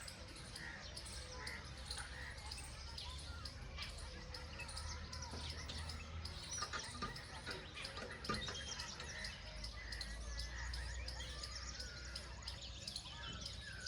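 Birds chirping and calling, many short scattered chirps, over a faint steady low rumble.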